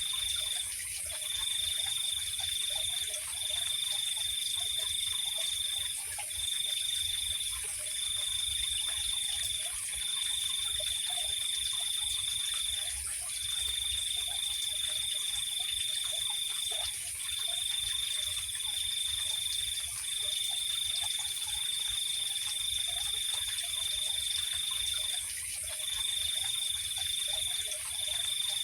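Night chorus of insects and frogs. A cricket trills in long, even phrases with short breaks between them, over a continuous high insect hum, with faint, scattered low frog calls beneath.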